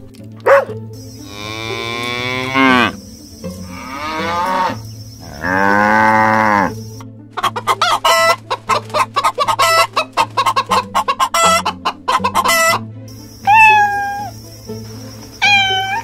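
A sequence of farm-animal calls. First a cow mooing in long drawn-out calls, then chickens clucking rapidly for several seconds, then a cat meowing twice near the end.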